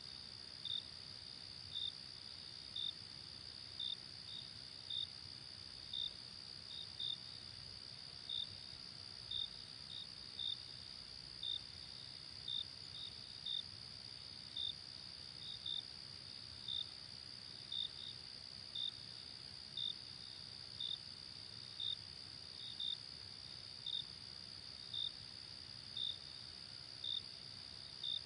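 Night insects calling: a steady high trill with a louder short chirp about once a second, now and then doubled, over a faint low rumble.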